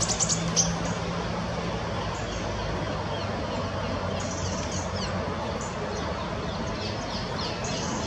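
Small birds chirping: a few sharp high chirps right at the start, then a run of short falling chirps through the second half, over a steady low background rumble.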